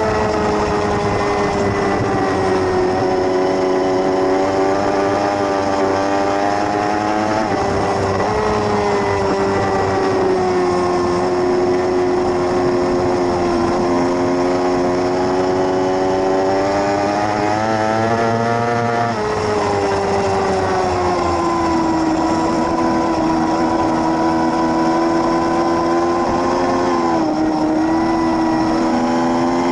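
A 600cc race motorcycle's engine screaming at high revs under racing, its pitch sliding up and down continuously. The pitch jumps sharply upward about a quarter of the way in, again near two-thirds, and once more near the end.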